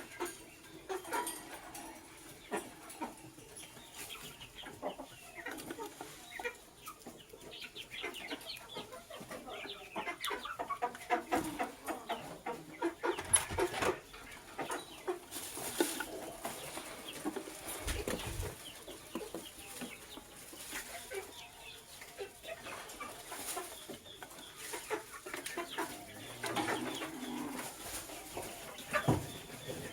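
Lovebirds chattering: a steady stream of rapid, short chirps and squeaks with occasional louder calls.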